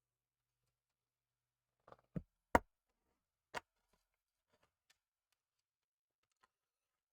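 A few sharp clicks and knocks from small model truck parts being handled, the loudest about two and a half seconds in, followed by a few faint ticks.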